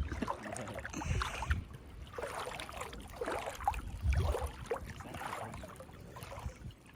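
Shallow seawater sloshing and splashing around someone wading, in irregular surges.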